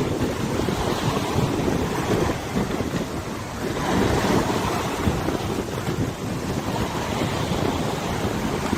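Wind buffeting the microphone over the steady wash of a wide river's water, in gusts with a brief lull about three and a half seconds in.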